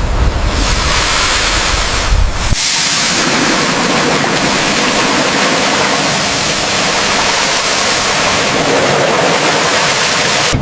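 Steady, loud hiss of a high-pressure jet blasting at metal, as in washing off mud or blasting off rust. A low rumble under it stops about two and a half seconds in.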